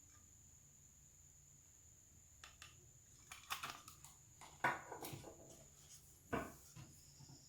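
Handling noise: irregular clicks and short scrapes of small objects being handled, starting a couple of seconds in, with the loudest knocks about halfway through and near the end. A faint steady high whine runs underneath.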